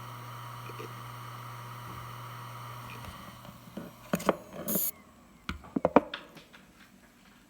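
Western Digital WD1600AAJS 7200 RPM 3.5-inch hard drive spinning with a steady hum, which dies away about four seconds in as the drive is ejected and powered down. A run of sharp clicks and knocks follows as the drive and its USB adapter are unplugged and handled.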